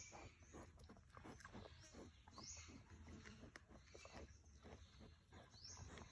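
Faint grunting and scuffling of a wild boar, with three short high calls that rise in pitch.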